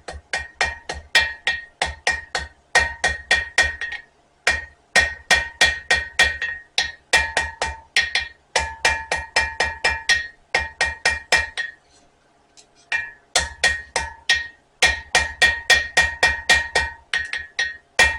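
Hand hammer striking hot spring steel on an anvil, forging a knife blade: quick runs of about four to five ringing blows a second, with brief pauses about four seconds in and about twelve seconds in.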